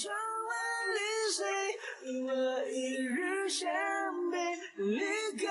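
Background song: a sung vocal line with long held notes that slide between pitches.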